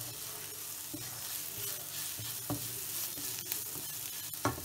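Browned sliced onions with turmeric and coriander powder sizzling in oil in a non-stick wok, stirred with a wooden spatula that knocks and scrapes the pan a few times, most sharply near the end. The spices are being roasted with the onions until cooked through.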